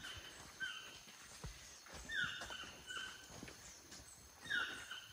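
A bird calling repeatedly from the trees: a falling, yelping note followed by shorter notes, the phrase repeating about every two and a half seconds.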